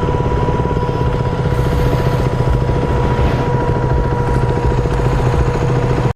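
Motorcycle engine running steadily with a fast, even pulse, until the sound cuts off suddenly near the end.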